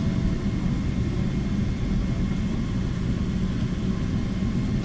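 Steady low rumble of an airliner cabin: engine and airflow noise heard from inside the passenger cabin, even throughout with a faint steady hum above it.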